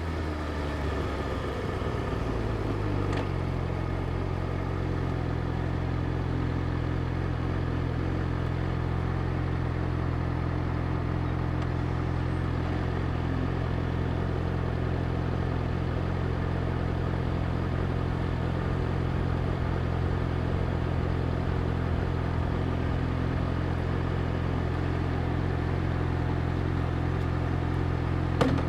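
Yamaha YZF-R6's inline-four engine dropping in pitch for the first few seconds, then idling steadily. A short click comes near the end.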